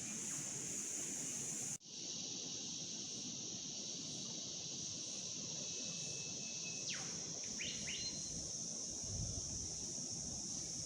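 Steady high-pitched insect drone that drops out for an instant about two seconds in. A bird calls about seven seconds in: a held whistle, then a few quick downward-sweeping notes.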